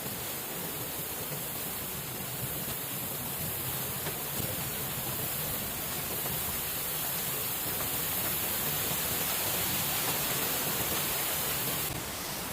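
Steady rushing noise of water, even and unbroken, dropping abruptly a little before the end.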